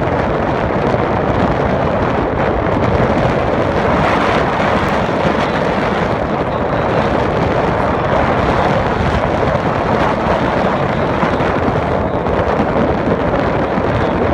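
Strong wind blowing, a loud, steady rushing noise that hardly lets up.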